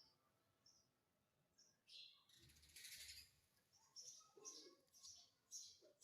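Pet green parrot making a series of faint, short, high chirps.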